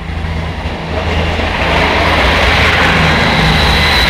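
A British Rail Class 158 diesel multiple unit passing over a level crossing, its diesel engines running and its wheels running on the rails. It grows louder over the first couple of seconds as it draws level, then holds steady.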